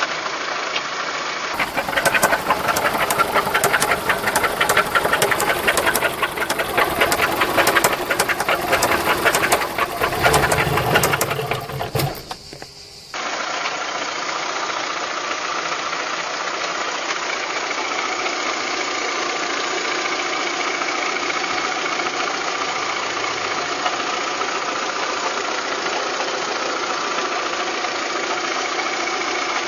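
Volkswagen Golf 3 engine running with an abnormal knocking noise. For the first half it is a loud, rapid knocking that stops abruptly after about thirteen seconds, and after that it runs more steadily.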